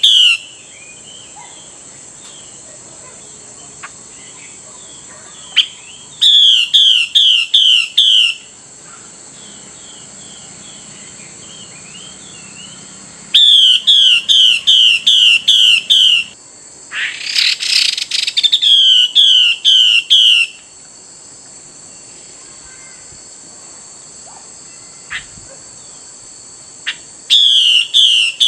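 Female Chinese hwamei calling in bouts of about six loud, sharp, evenly repeated notes, about three a second, with soft twittering between bouts. A harsh rasping burst comes about halfway through. A steady high hiss, like insects, runs behind.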